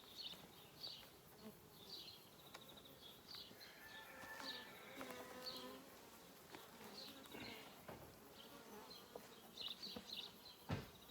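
Honeybees buzzing faintly around an open hive, one flying close by for a couple of seconds about four seconds in. A single sharp knock near the end.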